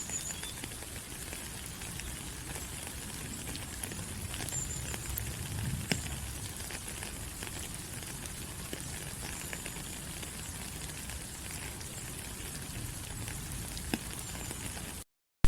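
Steady tropical rain falling on forest leaves, an even hiss dotted with small drip taps, with a few brief high chirps. The sound cuts out for a moment just before the end.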